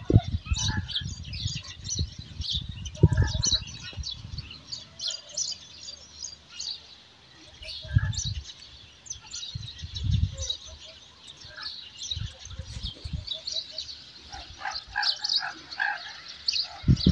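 Many small birds chirping in quick, scattered high notes throughout. A few short, low rumbling gusts hit the microphone now and then.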